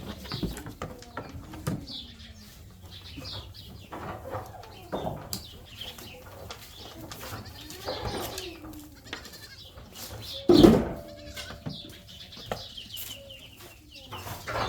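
Goats bleating on and off, several separate calls, mixed with scattered knocks and rustling of barn activity. The loudest moment is a sharp burst about ten and a half seconds in.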